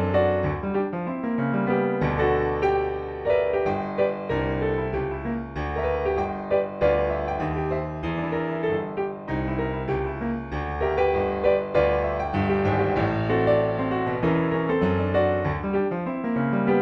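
Solo piano playing a Texas barrelhouse blues, with low bass notes in the left hand under chords and quick right-hand figures.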